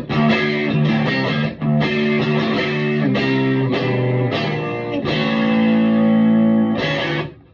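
Electric guitar played through a Vintage Sound Amp valve amp with a light overdrive: a run of strummed chords, then a long held chord that rings out and is cut off shortly before the end.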